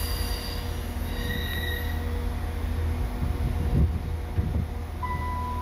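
LNER Class 800 Azuma bi-mode train running on its diesel engines at low speed around a tight curve: a steady low engine hum with faint wheel squeal in the first two seconds, and a couple of knocks as the wheels cross the points about four seconds in. A steady tone starts near the end.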